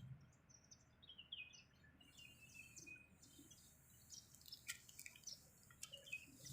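Faint, scattered high chirps like small birds calling, with a few soft clicks a little after the middle.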